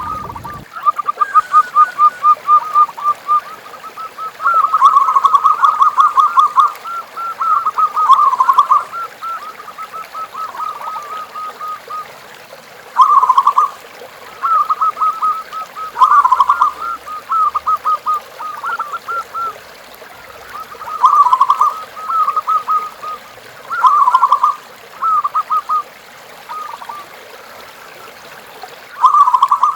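Zebra doves (perkutut) cooing: bouts of quick, rapidly repeated short notes, loud bouts alternating with softer ones.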